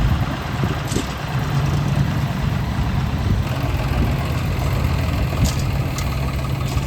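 Diesel engine of heavy road-construction machinery running steadily at a low, even pitch, with a few faint clicks.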